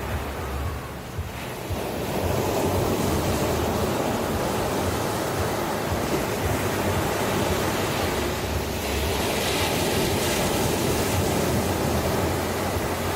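Ocean waves breaking and washing on the shore, a steady rushing surf that swells up about two seconds in.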